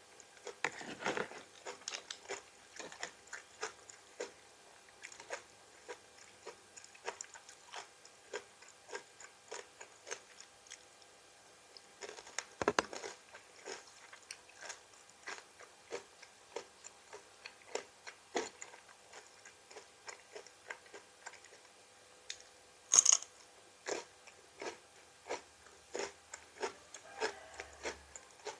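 A person chewing crunchy raw vegetables, a steady run of crisp crunches about one or two a second, with one sharper, louder crunch near the end.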